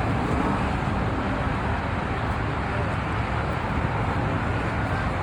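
Steady, even rumble of vehicle engines and traffic, with no distinct events.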